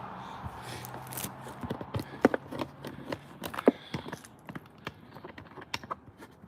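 Irregular light knocks and clicks, busiest in the middle and fading toward the end.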